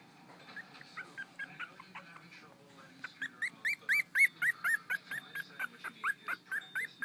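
Puppies whimpering in a run of short, high squeals. The squeals are faint and scattered at first, then from about three seconds in they come louder and steadier, roughly three a second.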